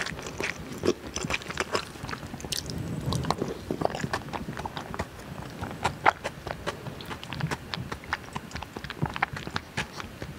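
Close-miked chewing of a mouthful of spicy fire noodles and curry rice: a steady run of wet smacks and clicks.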